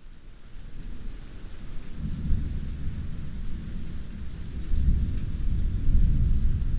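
Heavy rain falling in a steady hiss, rising from quiet at the start, with a deep rolling rumble of thunder that builds about two seconds in and swells near the end.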